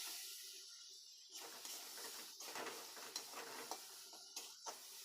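Curry sizzling in a pan with a steady hiss, while a spoon stirs it, knocking and scraping against the pan several times.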